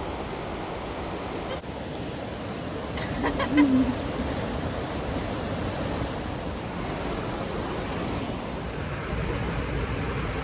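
Steady rush of creek water, with a brief pitched sound about three and a half seconds in, the loudest moment.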